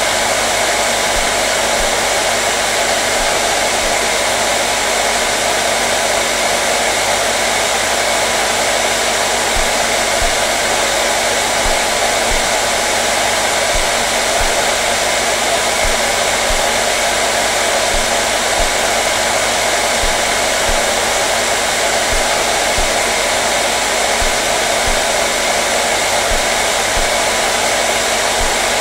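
Hair dryer running steadily, a constant loud rush of airflow over a low motor hum, with no change in speed or pitch.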